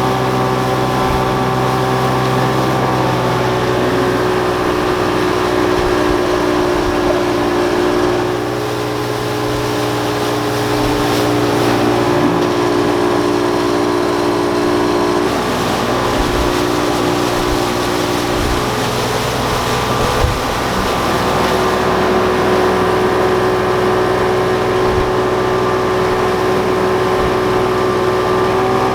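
A watercraft's engine running steadily under way, with wind and water noise; its pitch shifts slightly a few times.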